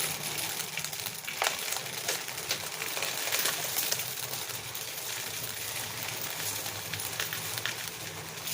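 Birdseed being poured and handled at a bird feeder: irregular small clicks and rattles of seed, over a low steady hum.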